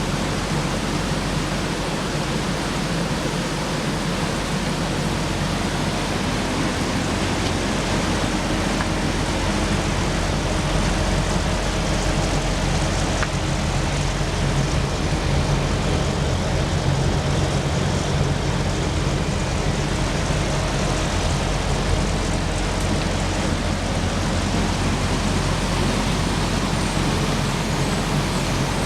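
Fujitsu three-phase inverter ducted heat pump running flat out in heating mode: the compressor is at full capacity and the fans are on high, with a frosted-up outdoor coil. It makes a steady rush of air over a constant low hum.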